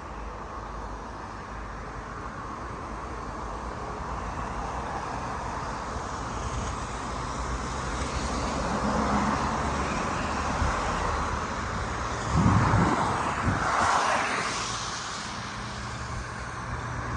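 A vehicle passing on a rain-wet road, its tyre hiss swelling to a peak about twelve to fifteen seconds in and then fading, over steady traffic noise.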